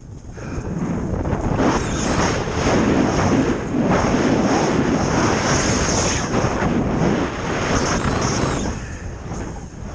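Steady rush of wind and snow noise from a snowboard riding fast down a snow slope. It builds over the first second and eases off near the end.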